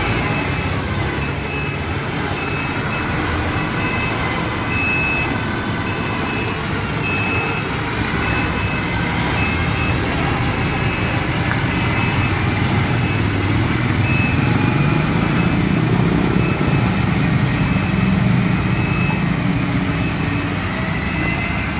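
Concrete mixer truck's diesel engine running steadily, its rumble growing stronger about two-thirds of the way through. A high beeping, typical of a reversing alarm, comes and goes over it.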